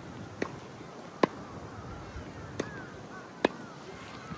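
Tennis balls struck by rackets in a quick volley exchange between two players: four sharp hits about a second apart, alternating a quieter far hit and a louder near one.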